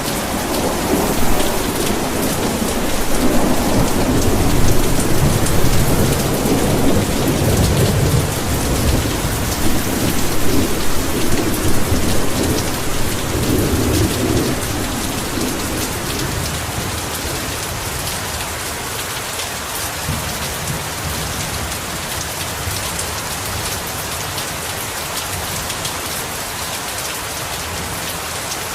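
Heavy rain falling steadily, with a long low roll of thunder in the first half that fades out about halfway through.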